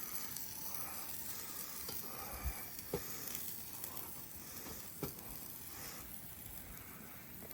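Bacon-wrapped hot dogs sizzling on a small Weber grill, a steady hiss with a few sharp clicks as the dogs are turned.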